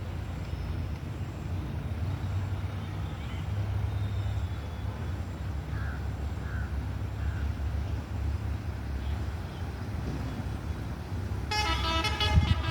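A steady low rumble of outdoor traffic. About a second before the end, a vehicle's multi-tone horn starts to sound loudly, its pitch stepping between notes.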